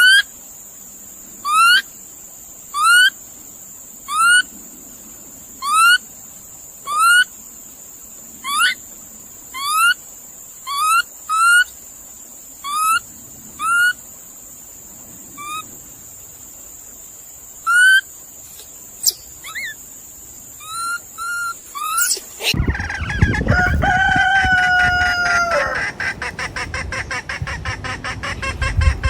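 An animal's short rising call, repeated about every one and a half seconds for some twenty seconds over a steady high-pitched hum. It then cuts suddenly to a loud rooster crow lasting about three seconds, followed by noisy fowl calls.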